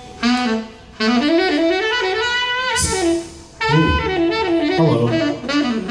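Saxophone playing quick runs of notes in two long phrases with a short break between them, sound-checking through the PA.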